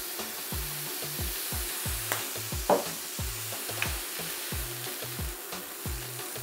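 Plant-based mince sizzling in a non-stick frying pan as it is stirred with a spatula, with a few sharp scrapes of the spatula on the pan. A background music track with a steady low beat runs underneath.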